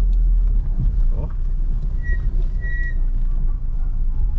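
Low-slung car driving on a dirt road, heard from inside the cabin: a steady low rumble of engine and tyres with light ticks from the road surface. Two short high tones sound about two seconds in.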